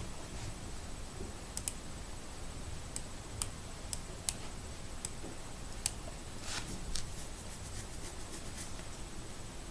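Scattered short, sharp clicks and ticks, a dozen or so at uneven intervals, over a steady background hiss with a faint high whine.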